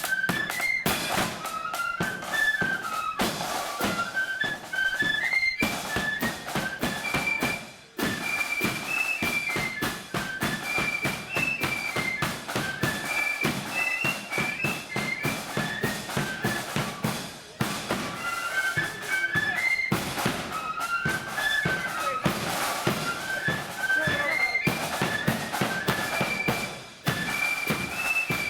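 Blood-and-thunder marching flute band playing a tune: massed flutes carry a stepping melody over dense, rapid snare drumming and bass drum beats.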